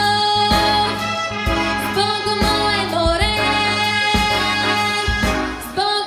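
A girl singing a song solo over a pop backing track with a steady drum beat, holding and sliding between long notes.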